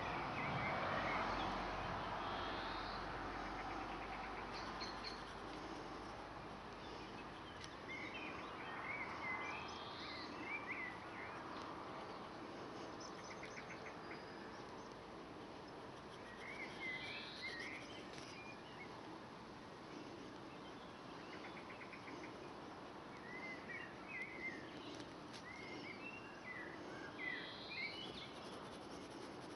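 Small birds chirping in short phrases every few seconds over a steady background hiss.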